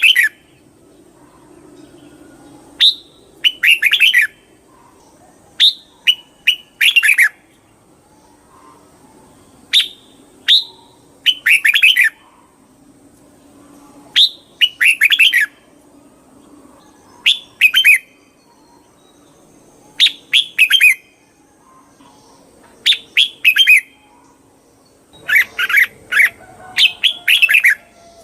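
Red-whiskered bulbul singing: short phrases of quick falling notes, repeated about every three seconds.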